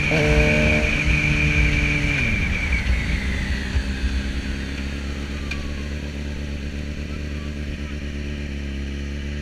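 Sport motorcycle engine heard from the rider's seat. It gives a short throttle blip just after the start and holds steady, then the revs drop between about two and three seconds in as the rider rolls off the throttle. It then runs steadily at low revs while the bike slows, with wind rush fading as the speed falls.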